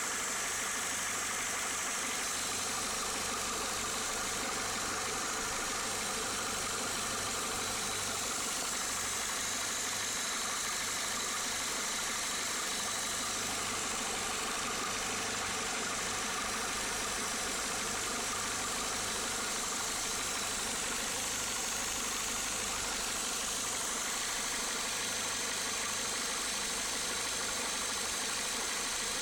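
Renault Clio Mk2 8-valve engine idling steadily, with a faint steady high-pitched tone over the running. This is the noise that appeared after its belt was changed.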